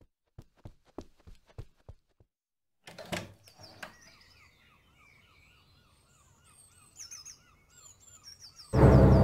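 Soft footsteps, about four a second, then a clunk of a door opening about three seconds in, followed by birds chirping outdoors. Loud music comes in sharply near the end.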